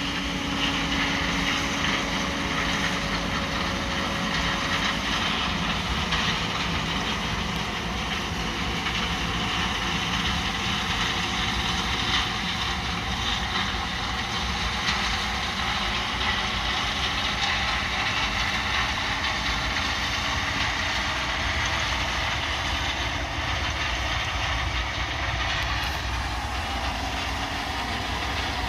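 John Deere 9500 combine with a 6-row corn head running steadily while harvesting corn: a continuous mechanical drone and clatter with no breaks.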